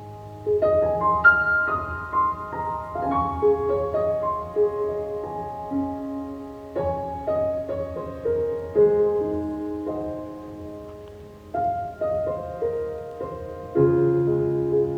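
Background piano music: a gentle melody of struck notes with a fresh chord near the end.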